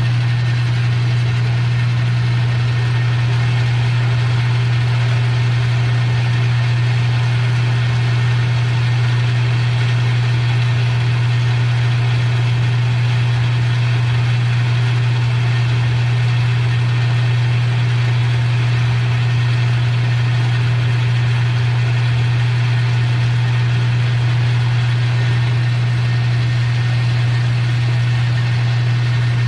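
Metal lathe running steadily through a cut: a strong, even motor hum with a steady hiss above it, as the tool is fed in to sneak up on a shoulder.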